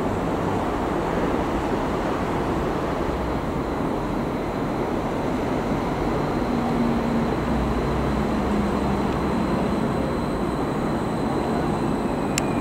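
DB class 429 Stadler FLIRT electric multiple unit rolling slowly into a station platform as it comes to a stop. It makes a steady rumble, with a low hum joining about halfway and a single sharp click near the end.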